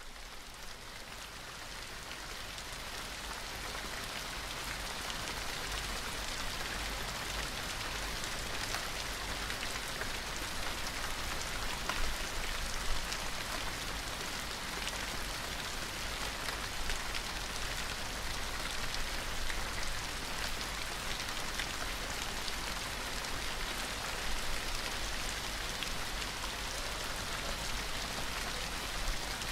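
Steady rain falling, a dense even hiss flecked with many individual drop hits, over a steady low rumble. It fades up over the first few seconds and then holds level.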